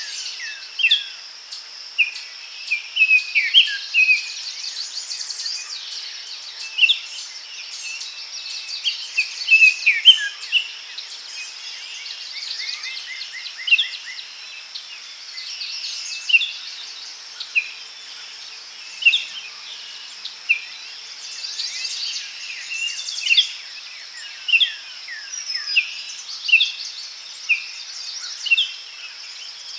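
Daytime forest ambience: several birds chirping and whistling in short, frequent calls, with a quick trill about halfway through, over a steady high insect drone.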